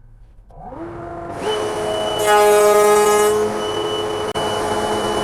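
Dust extractor and table-mounted router motors starting up, rising in pitch for about a second and then running with a steady high whine. A louder, harsher stretch of about a second comes midway.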